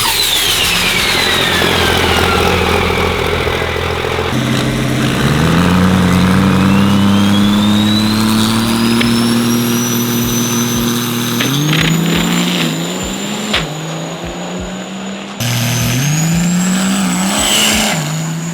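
Diesel drag-race truck accelerating hard down the strip: the engine note climbs and drops back at gear changes, with a high turbo whistle rising over it.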